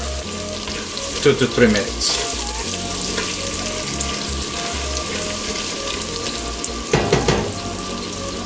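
Blended turmeric spice paste with lemongrass and kaffir lime leaves sizzling steadily in hot oil in a stainless steel pot while being stirred with a wooden spatula, sautéed until fragrant.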